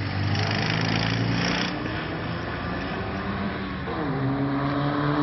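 Fiat 126p engine revving under hard acceleration during a timed run: the note falls back briefly, then climbs quickly again about four seconds in.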